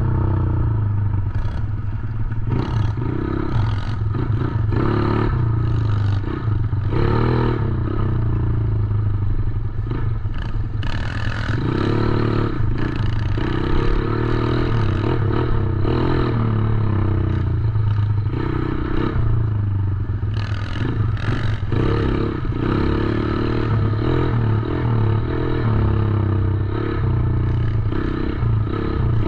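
110cc dirt bike's single-cylinder four-stroke engine running under riding, its pitch rising and falling with the throttle, with frequent short knocks over the top.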